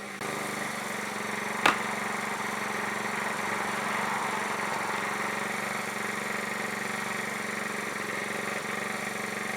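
Portable generator engine running steadily at an even pitch, with a single sharp knock about two seconds in from an axe striking a log.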